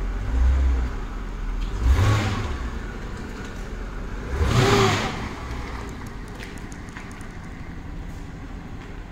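Mercedes SL500's V8 engine running, with two short revs, about two seconds in and again near five seconds, then settling to a steady, quieter run.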